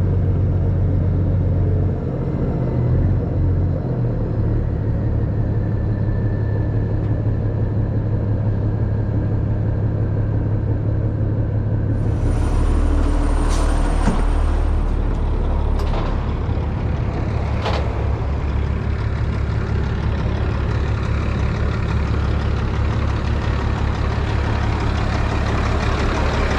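Heavy truck diesel engine running steadily, with a few sharp clicks about halfway through.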